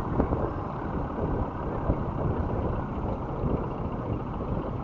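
Motorcycle engine running with steady road noise while riding in slow city traffic.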